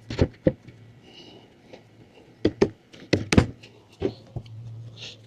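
A series of sharp knocks and taps, about eight in loose pairs, as the parts of a camper platform kit are handled and fitted together.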